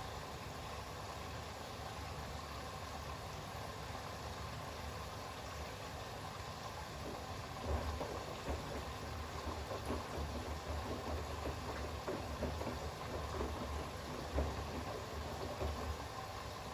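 Bosch front-loading washing machine in the rinse phase of a towels wash: a steady background hum, then about eight seconds in the drum starts turning, with uneven thuds and sloshing as the wet towels tumble through the rinse water.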